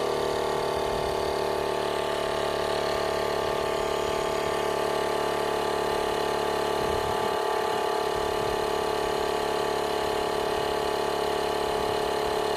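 Cordless battery-powered portable air compressor switching on abruptly and running steadily at a constant pitch.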